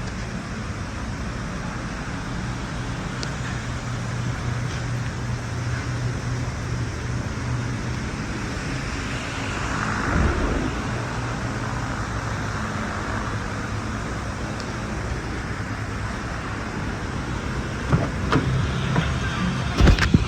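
Ford 5.4L V8 engine idling steadily, with a few sharp clicks and knocks near the end.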